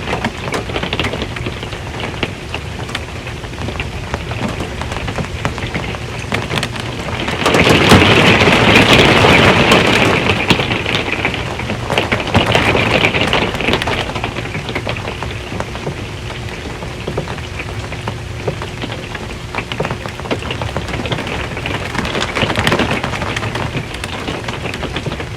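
Rain drumming steadily on an RV's metal roof, with a loud rumble of thunder swelling up about a third of the way in and dying away over several seconds.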